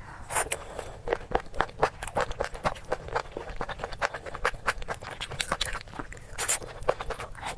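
Close-up eating sounds: someone biting and chewing crunchy food, a quick run of crisp crunches several a second, a few louder bites among them.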